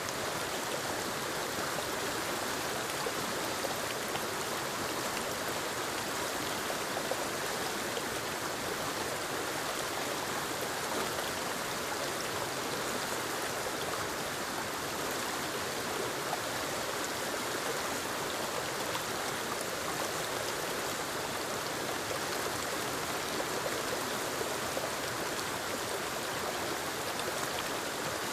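A forest waterfall spilling over rocks into a stream, a steady rush of falling and flowing water.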